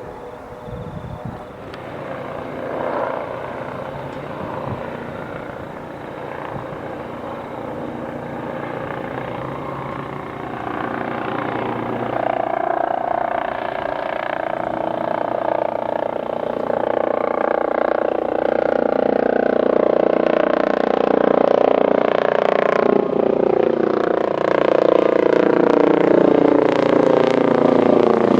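Airbus Helicopters EC135 T2+ helicopter flying in, its rotor and turbine whine growing steadily louder, with the pitch falling over the last few seconds as it passes.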